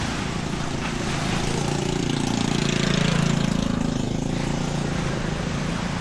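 A motor vehicle's engine passing by, getting louder until about halfway through and then fading, over a steady outdoor hiss.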